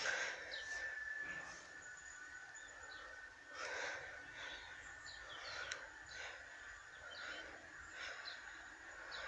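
Small birds chirping, short calls scattered throughout, over a faint steady high whine.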